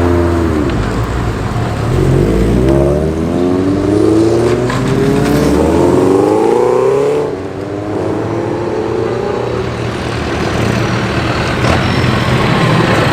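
Cars driving past on the road. One accelerates with its engine note rising for about five seconds before it drops away suddenly near the middle, then lower engine sound from further traffic.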